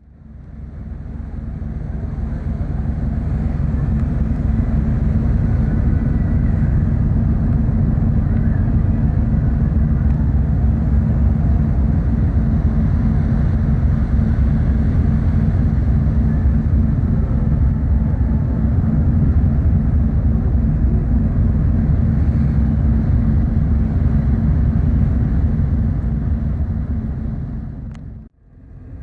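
Steady low rumble of a car ferry's engines heard aboard, with a constant hum underneath; it fades in at the start and cuts off a second before the end.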